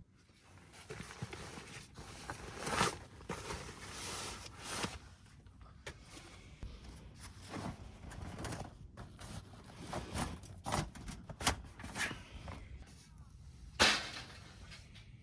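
Irregular handling noises: rustling with scattered clicks and knocks, and one sharp, louder knock near the end.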